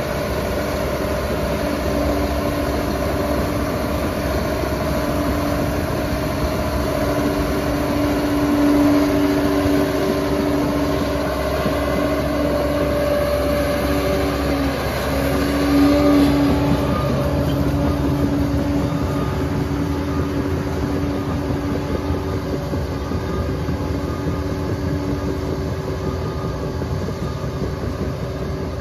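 Liebherr PR 746 crawler dozer's diesel engine running under load, a steady drone whose pitch and loudness swell briefly about halfway through.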